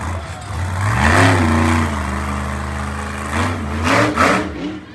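Monster truck engine revving: the pitch climbs about a second in, holds steady, then two quick blips of the throttle near the end.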